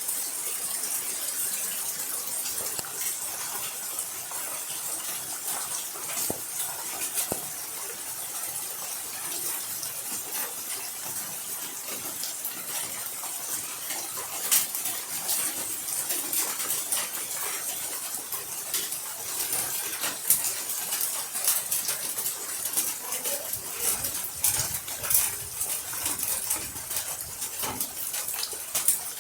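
Steady rainfall: a constant hiss of rain with many sharp drips and taps striking hard surfaces.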